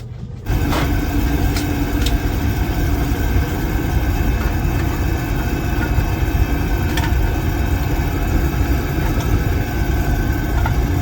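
Oil burner of a Williamson oil furnace firing up about half a second in, jumping suddenly from a faint hum to a loud steady rumble of burner and flame.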